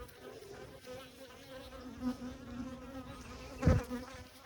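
Honeybees buzzing around the hive in a steady, wavering hum, the colony stirred up and, in the beekeeper's word, mad after being worked on. A single short thump about three-quarters of the way through.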